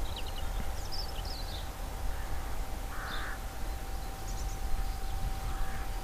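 Birds calling outdoors: short high chirps and a few harsh, crow-like caws, over a steady low rumble and a faint steady tone.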